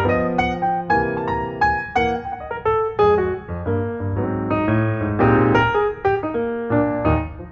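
Background music: a piano playing a melody with chords, notes struck several times a second.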